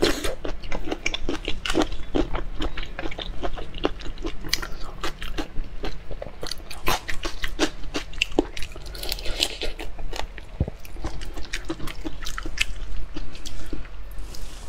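Close-miked chewing and crunching of whole soy-sauce-marinated shrimp, the shells cracking between the teeth in many quick crackles.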